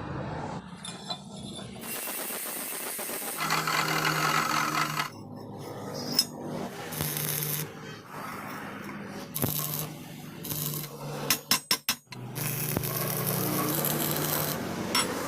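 Metalworking on steel pipe: several stretches of rasping, scraping noise with a low hum under them, and a quick run of sharp knocks about three-quarters of the way through.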